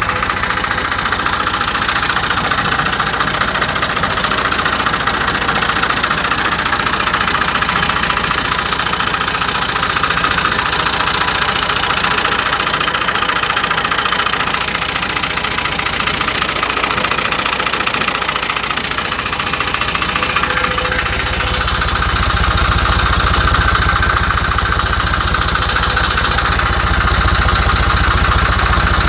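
Fiat 480 tractor's diesel engine running steadily near idle. About two-thirds of the way through, its sound gets louder and deeper.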